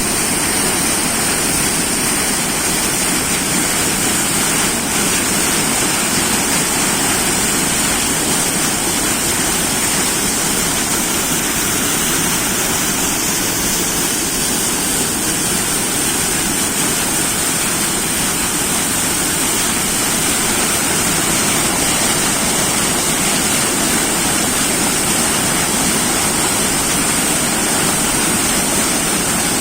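Rushing water flowing strongly: a steady, loud roar of water with no change.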